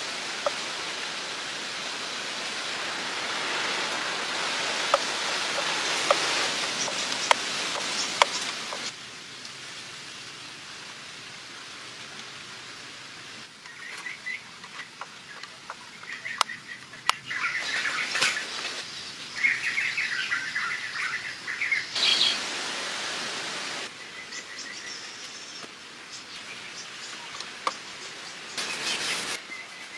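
Small birds chirping and tweeting in repeated short clusters through the middle. Before that comes a steady rushing hiss with a few sharp knocks.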